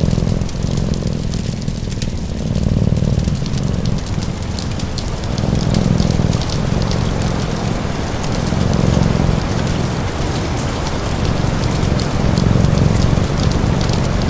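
Steady rain with short crackles from a wood fire, over a low cat purr that swells and fades about every three seconds with the cat's breathing.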